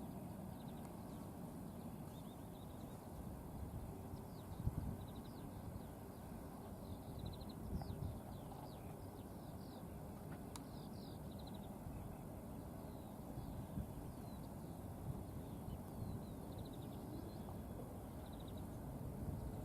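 Songbirds chirping and trilling repeatedly over a faint, steady low rumble.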